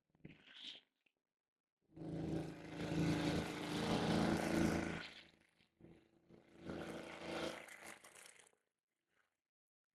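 Brush cutter engine running in two stretches, about three seconds and then about two and a half seconds, with a short higher-pitched sound just before the first.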